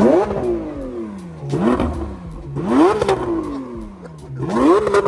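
Car engine free-revved four times in a row, each rev climbing quickly and then falling away slowly toward idle.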